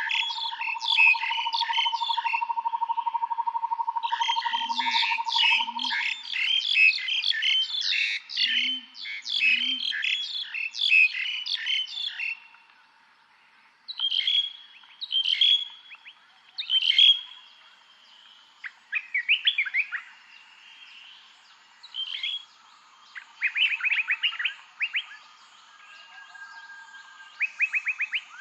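Several songbirds singing in a forest: dense, rapid chirping phrases at first, thinning after about twelve seconds to scattered calls and short trills. A steady high hum runs under the first six seconds, and a few short low calls come in briefly, likely frogs.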